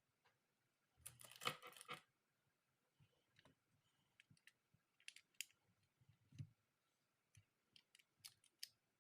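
Small clicks and rattles of hard plastic being handled, most likely the phone holder's parts: a quick burst of clicking and rattling about a second in, a soft thump past the middle, and scattered single clicks.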